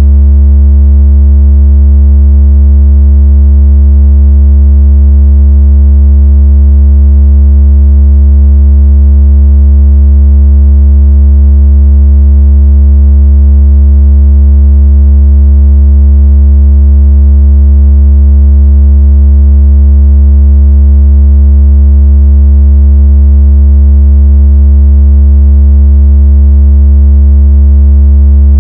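Loud, steady, unchanging electronic low bass tone with faint overtones above it. It is a water-out-of-speaker vibration tone, played to shake water out of a phone speaker.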